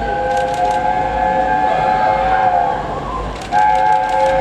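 A train's whistle sounding a chord of several notes in two long blasts: the first lasts about three seconds, and the second begins just before the end, with sharp clicks over both.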